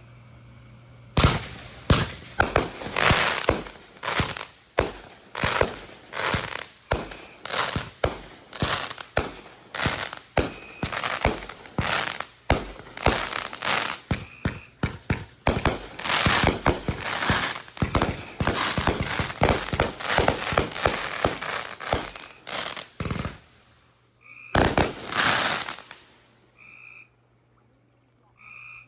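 Fireworks going off in a rapid string of sharp bangs, several a second, for about 25 seconds, with a short gap near the end before a last dense burst. Frogs croak once the firing stops.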